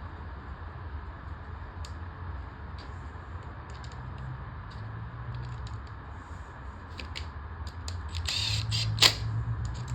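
Small parts of a lawnmower carburetor clicking and tapping as they are handled and fitted back together, over a steady low hum. Near the end there is a brief hiss and then a sharp click.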